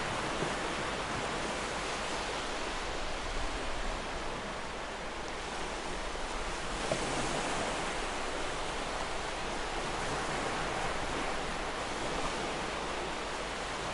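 Ocean surf washing on a beach: a steady rush of breaking waves that swells about halfway through.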